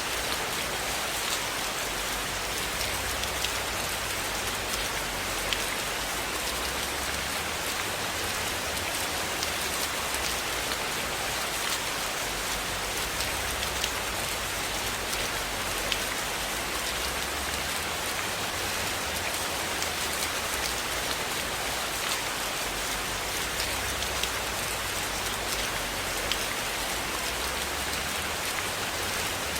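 Steady rainfall, an even hiss with scattered faint sharp ticks of drops and a low rumble underneath, holding level throughout.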